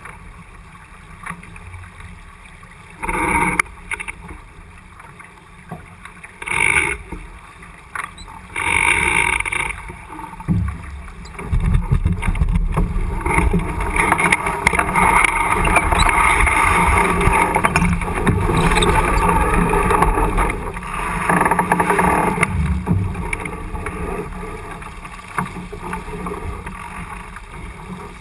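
Wind and water rushing aboard a J/80 keelboat under sail, growing much louder about eleven seconds in and easing again near the end. Three short, louder bursts come in the first ten seconds.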